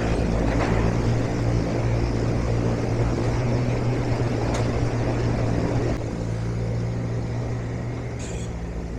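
A steady low engine hum, dropping a little in level about six seconds in.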